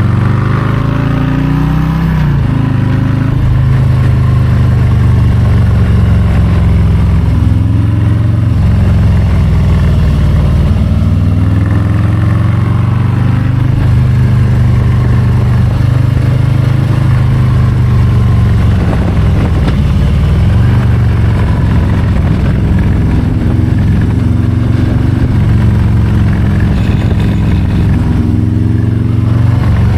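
Harley-Davidson Low Rider ST's Milwaukee-Eight 117 V-twin engine running under way, its revs rising and falling again and again as the rider accelerates and eases off the throttle.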